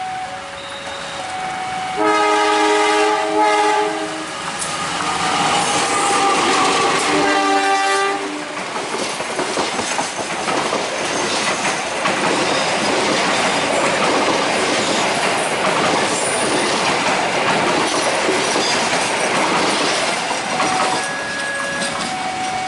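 A level crossing alarm sounds alternating two-tone beeps. About two seconds in, the Penataran train's diesel locomotive blows its horn, a loud multi-note blast lasting about two seconds, then blows it again briefly around seven seconds. The train then passes close by, its wheels clattering over the rail joints under a loud rushing noise, and the alarm's two tones come back through near the end.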